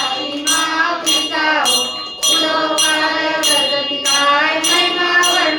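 Marathi devotional aarti music between verses: a melody over a steady beat of jingling cymbal-like strikes about twice a second.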